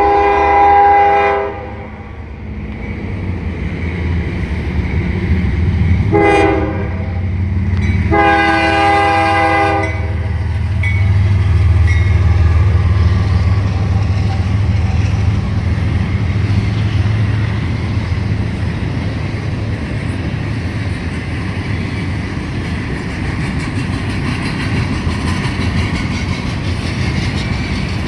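CSX diesel freight locomotive sounding its horn three times: a blast of about a second and a half, a short one, then a longer one. After that comes the low, steady rumble of the locomotive engines and the rolling of the intermodal train's cars.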